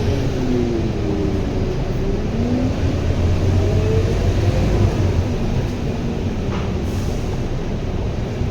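Scania K230UB bus running, its Scania DC9 9.3-litre diesel droning low under a drivetrain whine from the ZF Ecomat automatic gearbox. The whine falls in pitch over the first two seconds, then rises again as the bus picks up speed.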